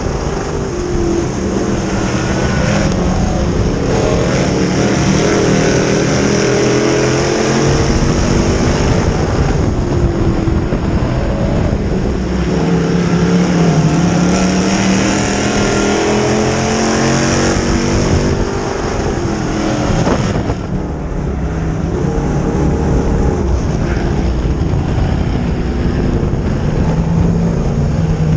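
Dirt modified race cars running on the track, their engines rising and falling in pitch as they come off and into the turns, several engines heard at once.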